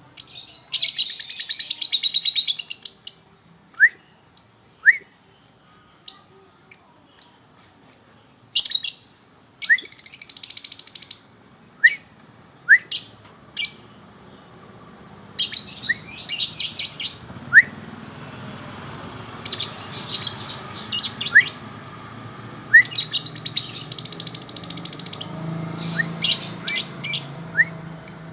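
Songbird singing: rapid, high trills lasting a second or two, alternating with short, sharp rising chips about once a second.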